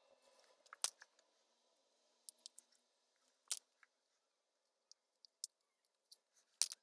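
Scattered sharp clicks and snips, about a dozen, irregularly spaced; the loudest come just under a second in, midway, and near the end. These are small hard objects being handled close to the microphone.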